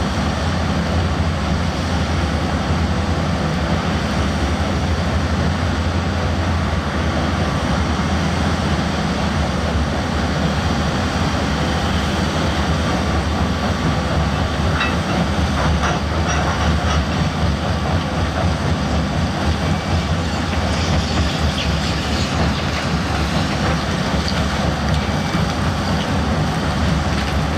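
Heavy diesel earthmoving machine running steadily at working speed, with a few metallic knocks about halfway through.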